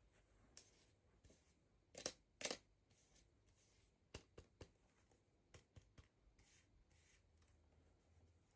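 Near silence broken by a dozen or so faint, sharp clicks and light rustles, as of hands handling and opening toy packaging.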